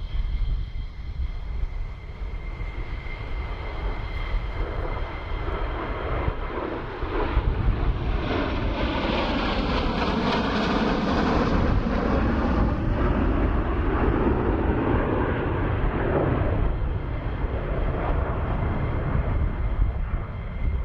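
F-16 fighter jet passing overhead: the engine roar swells to a peak about halfway through, with a sweeping whoosh as it goes by, then fades away over a steady low rumble.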